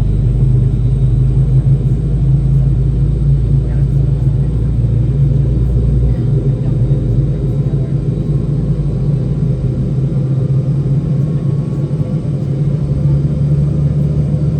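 Steady low rumble and hum of the Boeing 717's cabin while the aircraft is on the ground before takeoff. The deepest part of the hum drops away about six seconds in.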